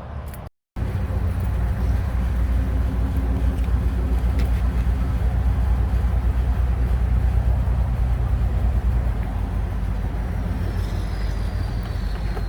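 Chrysler 3.8-litre V6 engine idling steadily, its low even pulsing starting abruptly just under a second in, with a faint high whine sliding slowly down in pitch near the end.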